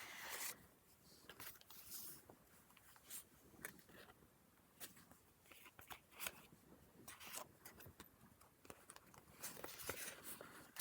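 Faint rustling and scattered light clicks of paper pages being handled and turned in a handmade junk journal.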